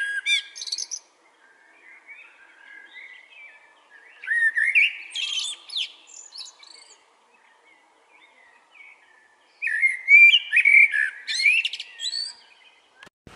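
A songbird singing rapid, warbling whistled phrases in three loud bursts of two to three seconds each, a few seconds apart, with softer twittering in between.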